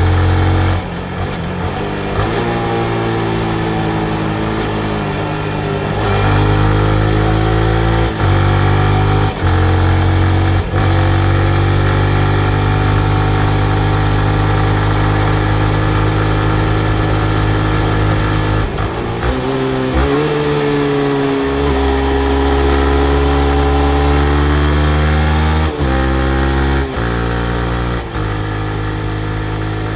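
2019 Yamaha MT-15's 155 cc single-cylinder engine running under way: its pitch climbs and then drops abruptly, again and again, as the rider accelerates and shifts through the gears.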